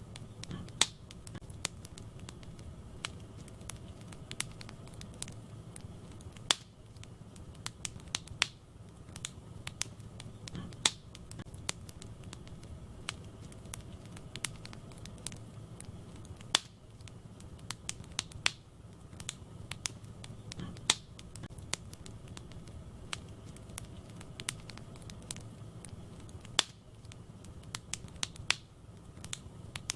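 Wood fire burning in a fireplace, crackling with frequent, irregular sharp pops over a steady low noise of the flames.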